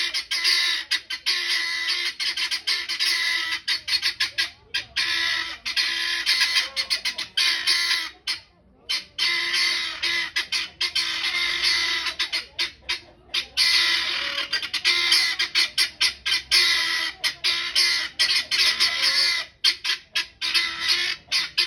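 Guinea fowl cackling: a rapid, harsh, repeated chattering of calls that runs on almost without pause, with a few short breaks.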